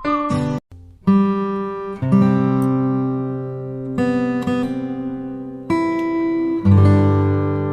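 Background music: acoustic guitar strumming chords, with a brief pause about a second in.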